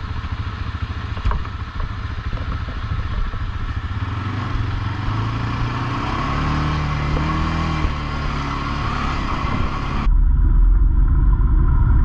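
ATV engine running along a trail, rising in pitch as it speeds up near the middle. About ten seconds in, a loud low rumble suddenly takes over and the higher sounds go muffled.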